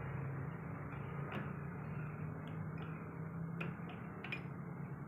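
A steady low hum with a few short, sharp clicks or knocks, about three over the span.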